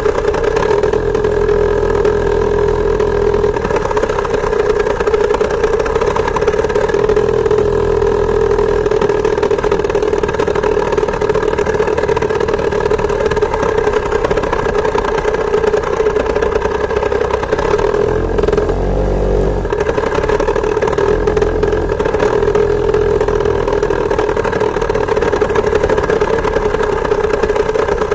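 Two-stroke chainsaw engine of a homemade moped running steadily as the moped is ridden. About two-thirds of the way through, the engine note dips briefly, then picks up again.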